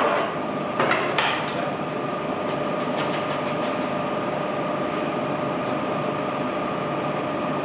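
A few short metallic knocks in the first second and a half as a D49 diesel injector's nozzle cap is tightened. They sit over a steady mechanical hum with a constant tone that runs throughout.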